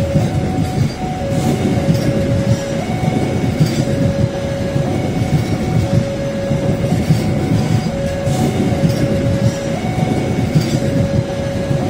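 Steady, loud rumbling running noise with a held tone over it that steps back and forth between two pitches every second or two.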